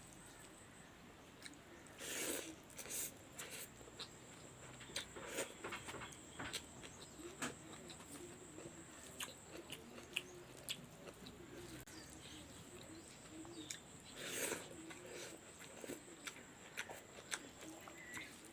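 Close-up eating sounds: a person chewing and smacking mouthfuls, with scattered soft clicks and two louder bites, one about two seconds in and one around fourteen seconds.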